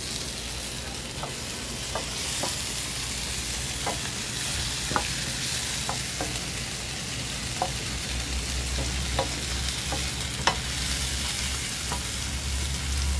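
Chopped red onion, garlic, peppers and freshly added yellow tomato sizzling steadily in hot oil in a large pan, stirred with a spatula that clicks against the pan a dozen or so times.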